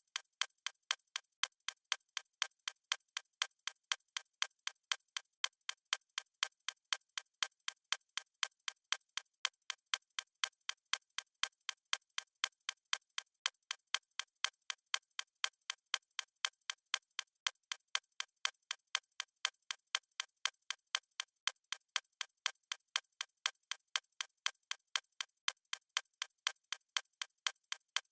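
Fast stopwatch ticking sound effect: sharp, evenly spaced clicks at a steady quick rate.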